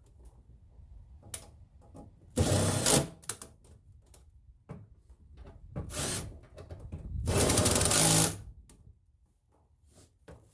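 Small handheld power tool, such as a cordless driver or electric ratchet, running in three short bursts (the last about a second long) to drive or back out bolts, with light clicks of tools and parts in between.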